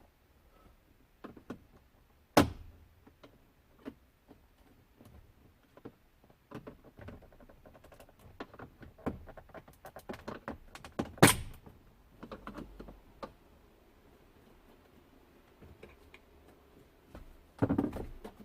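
Scattered knocks and clicks of car interior parts being handled and pried while taking apart the dashboard to remove the audio unit. Two sharp knocks stand out, one about two seconds in and a louder one about eleven seconds in, with a short burst of rattling near the end.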